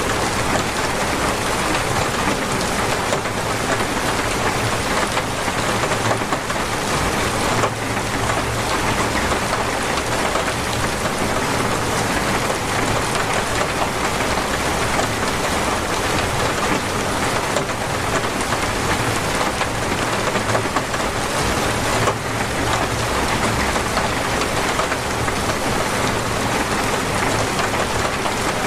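Torrential rain pouring down steadily, a dense, even wash of falling drops.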